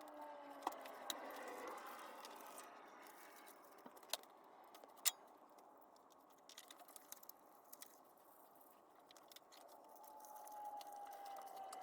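Faint, scattered clicks and clinks of metal tools and engine parts being handled, a couple of sharper clinks about four and five seconds in. A faint hum falls in pitch near the start and again near the end.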